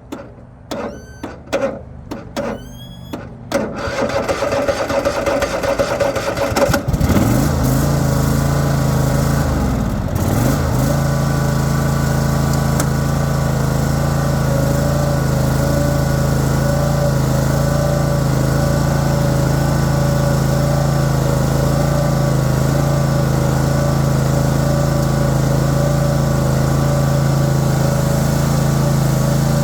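Troy-Bilt Mustang XP zero-turn mower engine being started with difficulty: several short bursts of cranking, then a longer crank until it catches about seven seconds in. Its speed swings for a few seconds, then it settles into a steady run.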